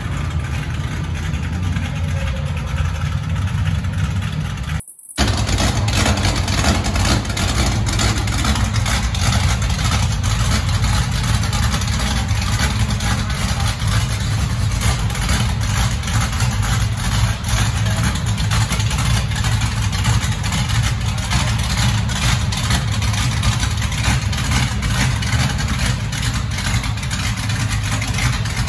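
Stock-car racing engine idling loudly and steadily, deep and low, with a brief break about five seconds in.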